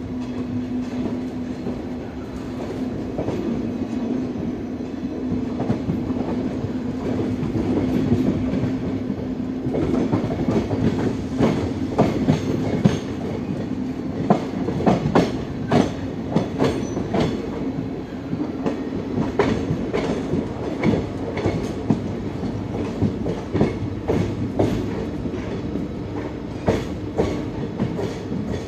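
Passenger train rolling through a station, heard from its own coach: a steady rumble and hum, with the wheels clacking over rail joints and points. The clacks come thick and irregular from about ten seconds in.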